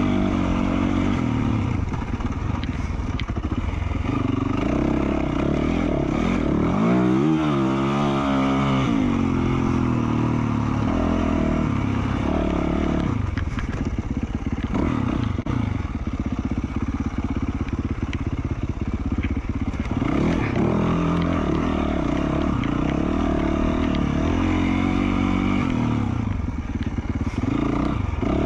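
2020 Yamaha YZ450F's single-cylinder four-stroke engine, fitted with an FMF Q4 slip-on silencer, being ridden on trail. Its pitch rises and falls constantly with throttle and gear changes, with a quick rev and drop about seven seconds in.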